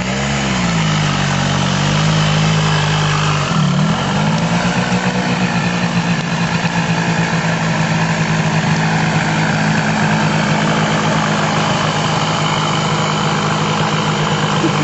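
Suzuki RG125 Gamma two-stroke single-cylinder engine in a homemade go-kart. It runs loudly, its revs dipping and rising a few times in the first four seconds, then holding at a steady speed.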